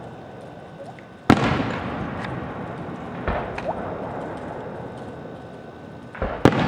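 Aerial fireworks shells bursting: a sharp bang about a second in and another near the end, with a couple of weaker pops between, each followed by a rolling rumble.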